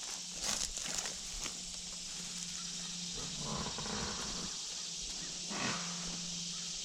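Outdoor ambience: a steady high-pitched hiss over a faint low hum, with a couple of soft brief sounds partway through.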